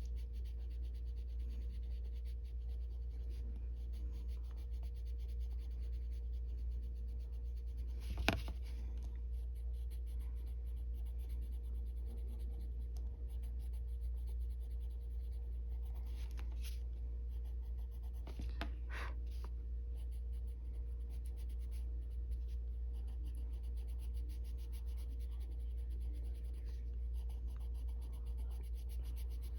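Colored pencil scratching lightly across paper in short, repeated shading strokes, feathering out the color, over a steady low hum. A sharp click about eight seconds in, and a few firmer strokes a little later.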